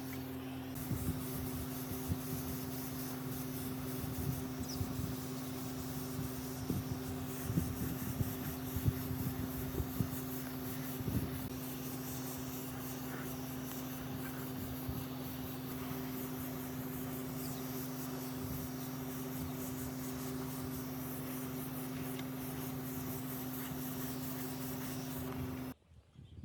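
A small electric motor hums steadily at one pitch. For the first dozen seconds a part is rubbed or scraped against it in short irregular strokes, then only the hum continues. The hum cuts off abruptly near the end.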